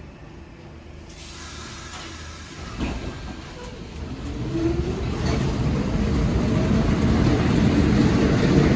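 R46 subway train approaching, its rumble and hiss growing steadily louder, with a brief rising whine about halfway through.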